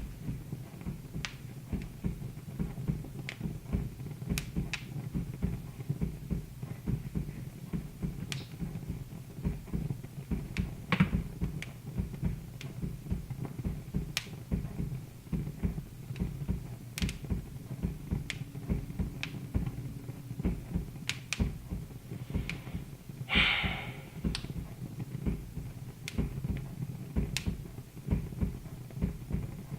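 Wood fire crackling in a fireplace: irregular sharp pops over a low steady rumble, with one brief louder hiss about three-quarters of the way through.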